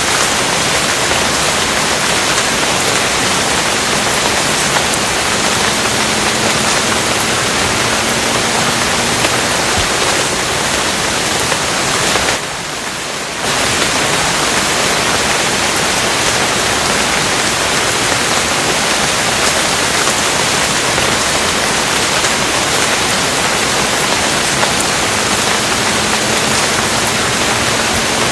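Steady, dense rain hiss with no breaks in the patter, dipping briefly in level for about a second near the middle.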